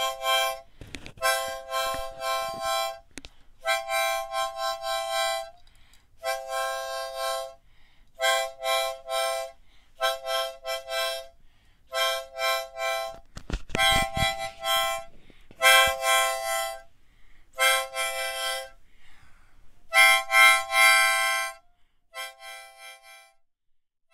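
Harmonica playing a tune in short held chords, phrase after phrase with brief breaths between, fading out near the end.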